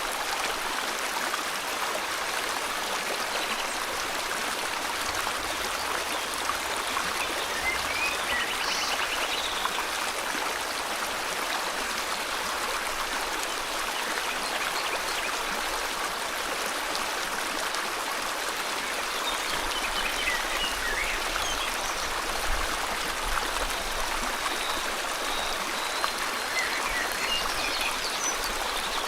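River water flowing steadily, a constant rush, with a few faint bird chirps about a third of the way in, around two-thirds and near the end.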